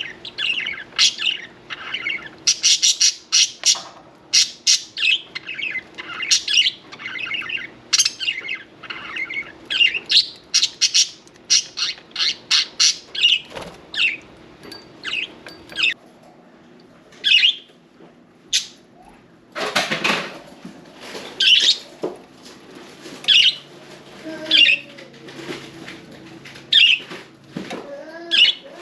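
Budgerigars chirping and chattering, in a dense, fast run for the first half, then sparser single calls. About two-thirds through comes a brief rush of noise lasting about a second, of the kind made by wings flapping.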